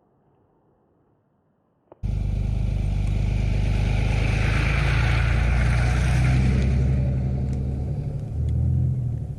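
Near silence, then about two seconds in a pickup truck's engine cuts in loud and steady as the truck drives on a snowy dirt trail, with a noisy hiss over the engine and a brief swell near the end.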